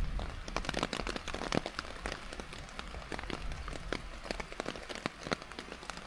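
Rain falling, with large drops hitting close to the microphone as a dense, irregular stream of sharp taps.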